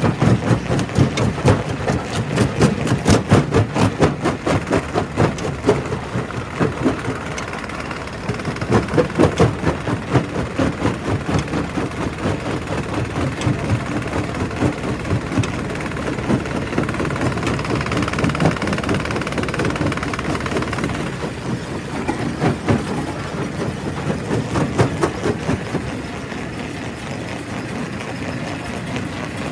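Quarry primary rock crusher running and breaking stone: a dense, irregular clatter of knocks and cracks over the machine's steady drone. The clatter is heaviest at the start and again about eight to ten seconds in.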